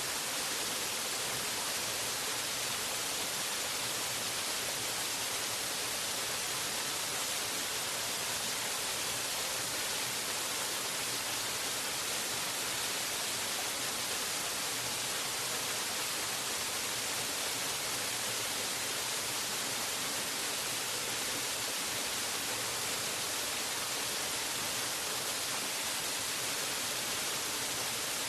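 Waterfall: a steady, unbroken rush of falling water, an even hiss strongest in the high range.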